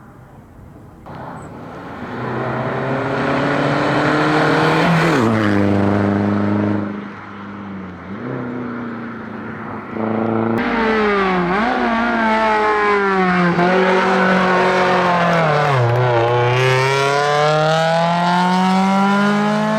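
Two rally cars running flat out on a hillclimb. First a Hyundai Getz Copa's engine rises in pitch as the car comes near, drops and fades as it goes past. Then, after an abrupt cut about ten seconds in, a Suzuki Swift Sport's engine runs at full throttle, its revs climbing and falling several times with the gear changes.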